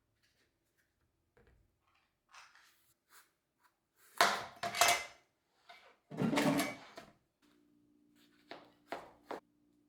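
Household items being handled on a kitchen shelf: scattered light knocks and rustles, with two longer, louder sounds about four and six seconds in, then a few sharp clicks near the end.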